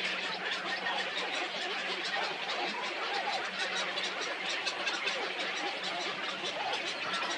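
A large flock of birds chattering, many short calls overlapping into a dense, continuous din.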